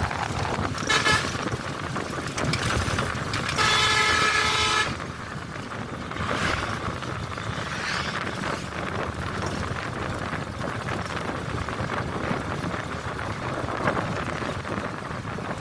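Vehicle horn: a short toot about a second in, then a longer honk lasting about a second, over the steady noise of a bus travelling along a road.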